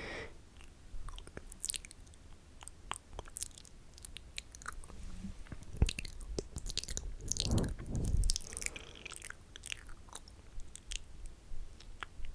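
Close-miked wet, spitty mouth sounds: irregular sticky clicks and smacks, with a louder, deeper stretch of contact on the microphone about two thirds of the way in.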